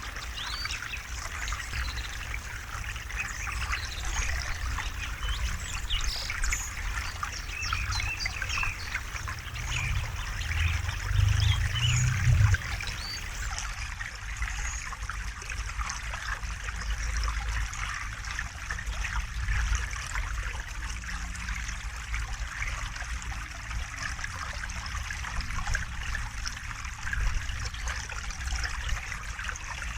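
A small river or stream flowing and trickling steadily, with faint bird chirps in the first half. About ten seconds in, a low rumble swells for a couple of seconds.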